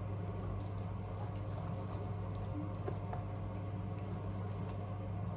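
Faint scattered ticks and soft squishing of a knife slicing through cooked tenderloin steak on a board, over a steady low hum.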